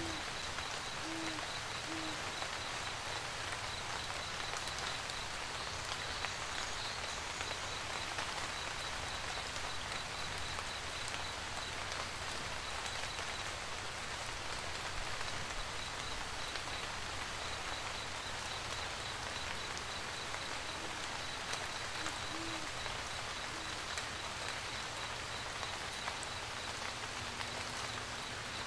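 Steady rain, with an owl hooting in short low calls, three near the start and three more a little after the middle. A faint, fast high-pitched pulsing chirp runs through much of it.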